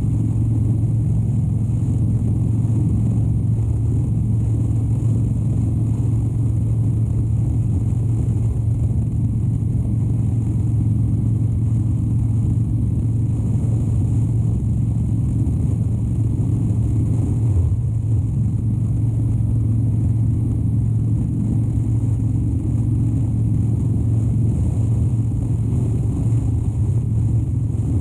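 2013 Harley-Davidson Dyna Wide Glide's air-cooled 103 cubic inch Twin Cam V-twin running at a steady cruise, its low, even note holding pitch with no shifts or revving.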